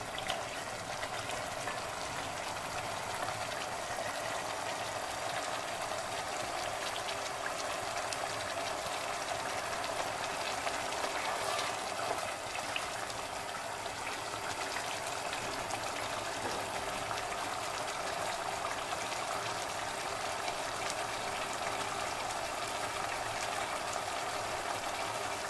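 Chicken in a thick yogurt and cashew-onion masala sizzling and bubbling steadily in a pot as it is fried down over the heat.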